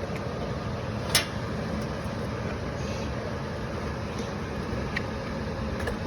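Furnace blower motor running steadily, with air rushing through the ductwork. A sharp knock about a second in and a couple of faint clicks later, as a tightly wedged furnace filter is worked out of its slot.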